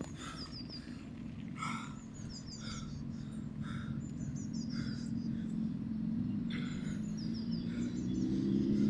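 Small birds singing: a quick, high run of falling chirps repeated every second or two, with shorter calls in between, over a steady low outdoor rumble. A low humming drone swells up near the end.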